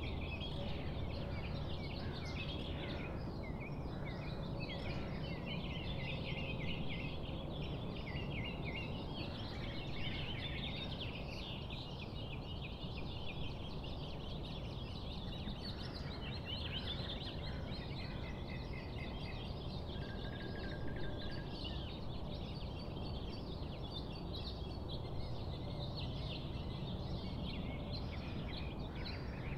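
Many birds chirping and calling over a steady outdoor background hiss, with a short held whistle-like note about two-thirds of the way through.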